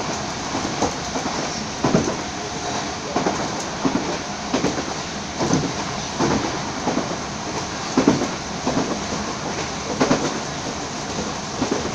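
Passenger train running at speed, heard from inside the carriage: a steady rumble with irregular clacks of the wheels over the rail joints every second or so.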